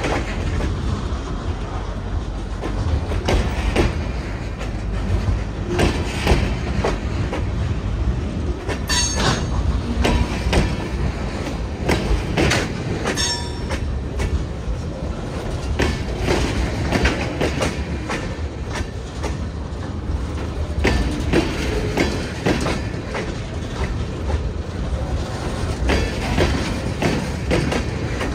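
Freight cars rolling slowly past at close range: a steady low rumble of steel wheels with irregular clicks and clacks over the rail joints, and brief high-pitched wheel squeals about 9 and 13 seconds in.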